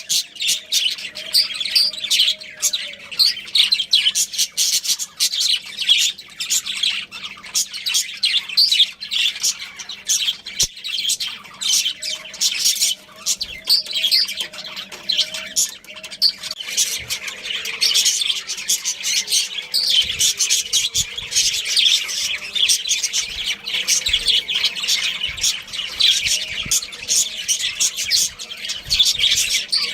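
Budgerigars chirping and chattering, a dense unbroken stream of rapid high chirps and squawks.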